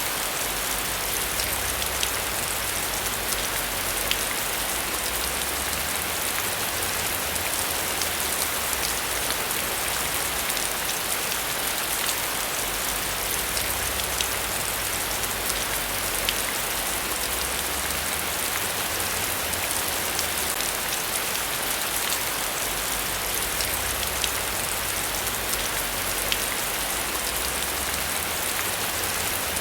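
Steady heavy rain, falling with an even hiss and scattered individual drop ticks.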